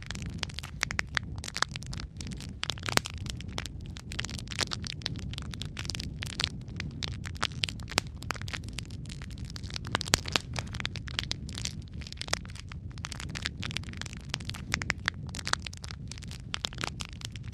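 Wood fire of burning logs in a fireplace, crackling continuously with many small pops over a low rumble of flames, and a few louder snaps, one about three seconds in and one near the middle.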